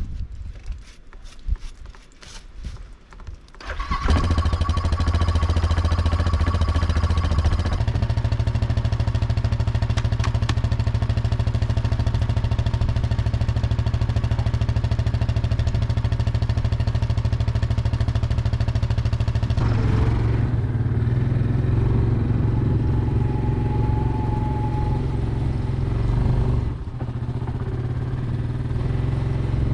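ATV (quad) engine starting about four seconds in, after a few knocks, then running steadily at idle. Its note shifts about twenty seconds in and dips briefly near the end.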